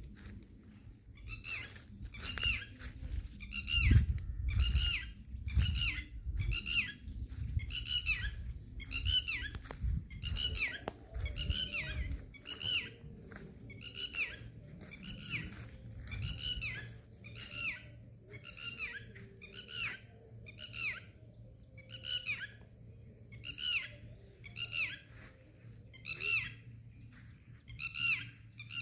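A bird repeating one short call that slides down in pitch, about once a second, over a steady high whine. A low rumble runs under the first twelve seconds.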